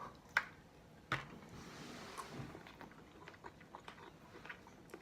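Quiet eating sounds at a crab meal: two sharp clicks within the first second or so, then soft chewing with scattered small clicks.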